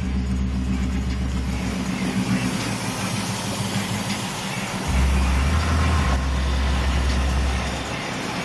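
Vehicle engine running as it drives slowly, heard from inside the cab: a low drone that eases off about two seconds in and swells again from about five seconds in.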